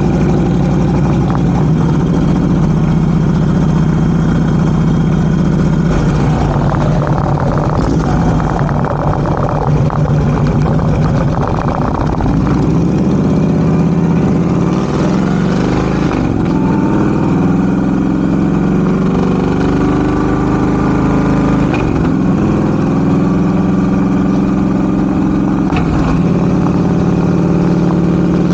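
Harley-Davidson Road King Classic's V-twin engine idling steadily, then pulling away: it rises in pitch and drops back several times as the gears change.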